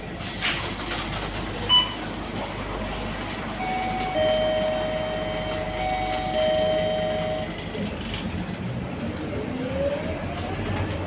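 Scania K230UB city bus running, a steady engine and road rumble with a short beep about two seconds in and a pair of held electronic tones for about four seconds in the middle. Near the end a whine rises in pitch as the bus picks up speed.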